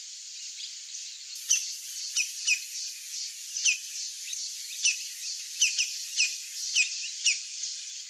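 Bird chirps: about a dozen short, high, falling notes, irregularly spaced, starting about a second and a half in. They sound over a steady high hiss like insects.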